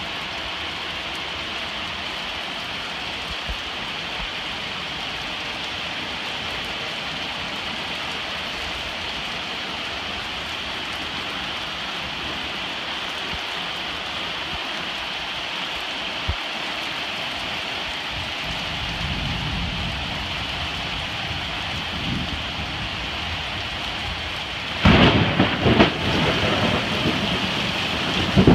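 Heavy rain falling steadily in a thunderstorm, with a low rumble of thunder about two-thirds of the way through. Near the end the sound turns suddenly louder and rougher, with uneven thumps.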